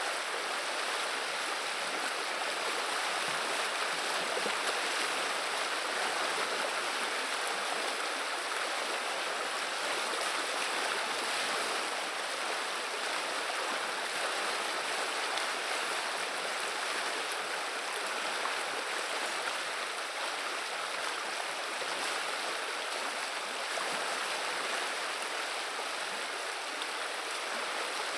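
River water running over shallows, a steady rushing and babbling with no change in level.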